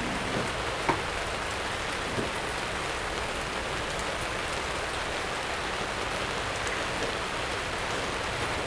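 Heavy rain falling steadily, with a light tap about a second in.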